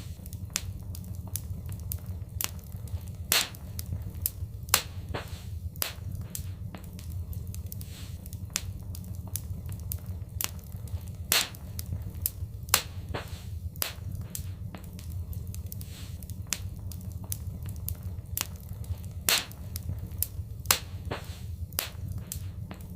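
Wood fire crackling in a fireplace: frequent sharp snaps and pops, several a second and a handful louder than the rest, over a steady low rumble of the flames.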